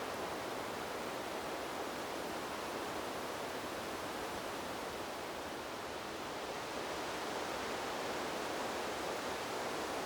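Steady rushing noise of wind blowing through trees, even and without gusts or distinct rustles, easing slightly about halfway through and swelling a little again toward the end.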